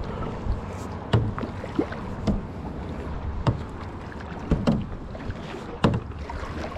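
Paddling a clear kayak: irregular knocks and splashes from the paddle, about eight in all, the loudest about a second in, near four and a half seconds and near six seconds, over a steady low rush of water and wind.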